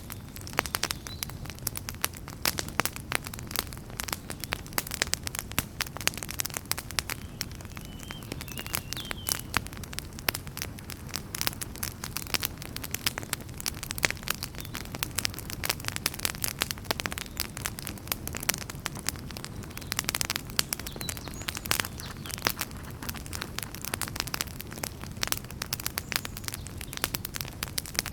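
Wood fire burning in a fireplace, with many sharp irregular crackles and pops over a steady low rumble of the flames.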